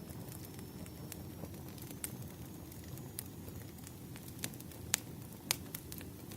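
Campfire burning: wood crackling over a steady low rumble, with scattered sharp pops, the loudest two about five seconds in.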